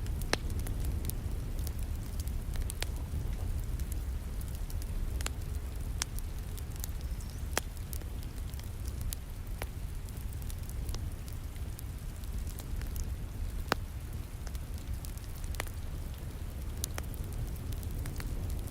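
Wood fire crackling in a fireplace, irregular sharp pops a few times a second, over a steady low rumble and the hiss of falling rain.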